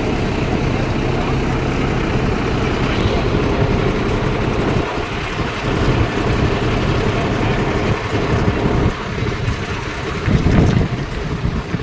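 Tractor engines running in a steady low drone as tractors go by, with some wind on the microphone.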